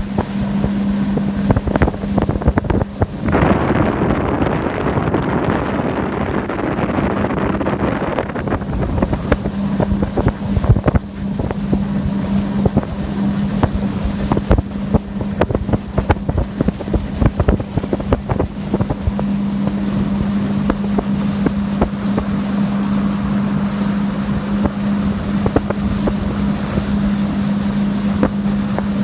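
Suzuki 100 hp outboard motor running a speedboat at speed, a steady drone throughout, with wind noise on the microphone and many short knocks. A louder rush of noise comes in about three seconds in and eases off around eight seconds.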